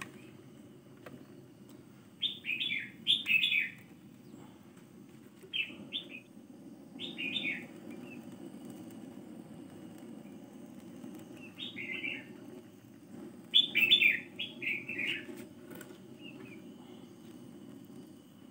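Small birds chirping in short, quick, falling notes, in little bunches several times, over a steady low rush from a handheld butane torch melting beeswax.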